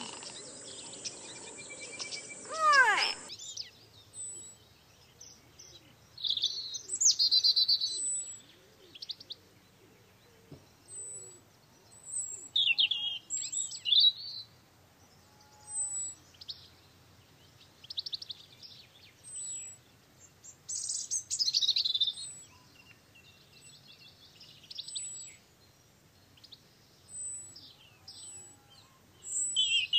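Small songbirds chirping and trilling in short, high phrases every second or two. For the first three seconds a different, denser bed of hiss with sweeping calls is heard instead.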